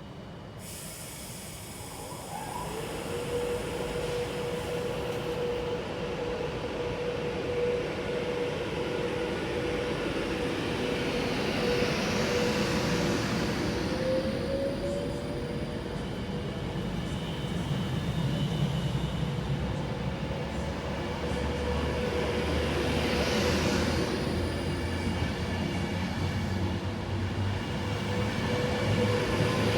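Avanti West Coast Pendolino electric tilting train running over a viaduct, a steady rolling rumble with a high steady whine. It grows louder over the first few seconds and swells twice as it goes by.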